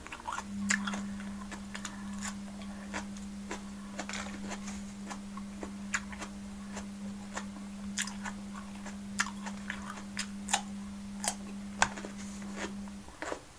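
Close-miked eating sounds: irregular wet clicks and smacks of chewing raw cucumber and bell pepper. Under them runs a steady low hum that stops near the end.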